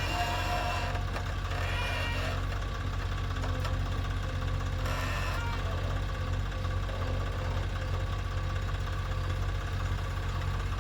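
Heavy diesel engine running steadily with a low, even hum, typical of the earthmoving machines and tractors at a mud-loading site.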